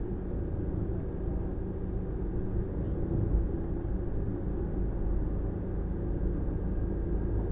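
Steady low rumble of a running vehicle, like engine and road noise inside a moving car.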